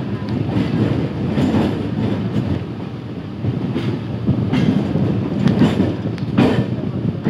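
Electric multiple unit local train running slowly over points and crossovers: a steady rumble of wheels on rails with repeated clacks as the wheels cross switch frogs and rail joints, the loudest clack about six and a half seconds in.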